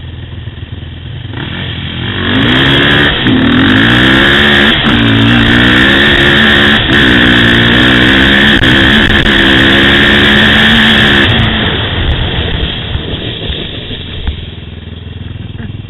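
ATV engine revving hard under acceleration, its pitch dropping and climbing again several times as with gear changes, with wind noise on the microphone; it builds about two seconds in and fades after about eleven seconds.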